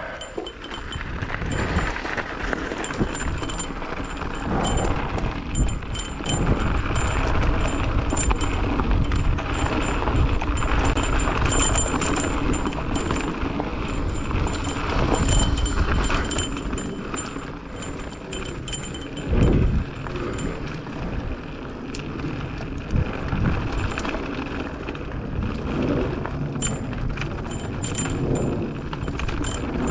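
Mountain bike rolling fast down a dirt trail: a steady rush of tyre and wind noise on the microphone, broken by many small clicks and rattles over bumps.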